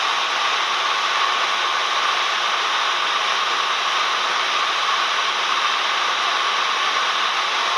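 Steady, even rushing noise inside a Cessna 172M cockpit in flight, with no changes, clicks or radio calls.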